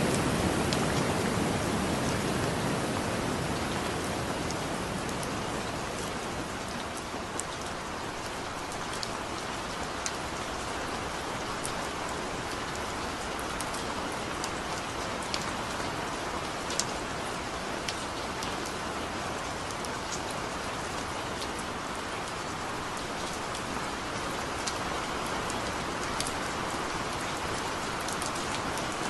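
Heavy rain falling steadily: a dense hiss of rain with scattered sharp ticks of single drops landing close by. A deeper rumble in the first few seconds fades out.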